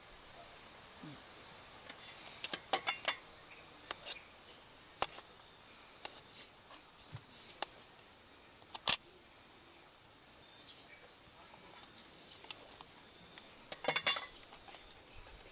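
Spoons and forks clinking against plates and dishes in scattered sharp clicks, with quick clusters about three seconds in and near the end, over a faint steady high insect buzz.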